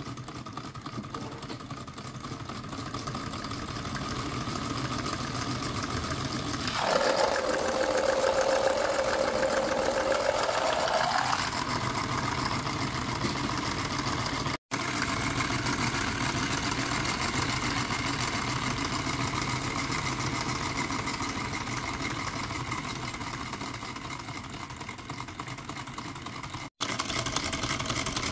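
Homemade syringe solenoid engine running with a steady mechanical buzz. It gets louder for a few seconds about seven seconds in, and the sound cuts out for an instant twice.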